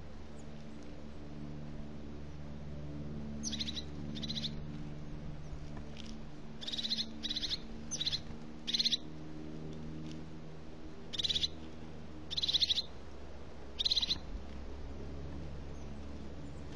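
A bird giving short, high, rattling calls, about nine in all, in small clusters from a few seconds in until near the end, over a low steady hum.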